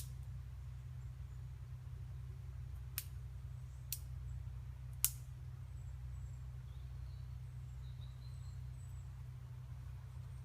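Four sharp clicks, the loudest about five seconds in, over a steady low rumble, with faint high chirps in the second half.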